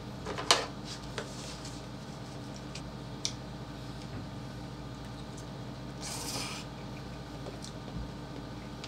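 Close-up eating and food-handling sounds over a steady low background hum. A sharp crackle comes about half a second in as fried chicken is pulled apart, followed by a few small clicks of fork and paper box and a short rustling noise about six seconds in.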